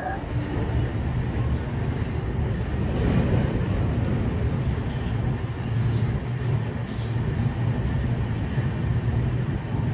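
Passenger train coaches rolling along a station platform: a steady low rumble of the running gear, with a few faint short high squeals.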